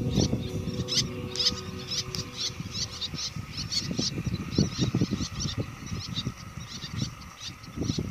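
Small birds chirping: many short, high calls repeated in quick runs, over a steady low rumble.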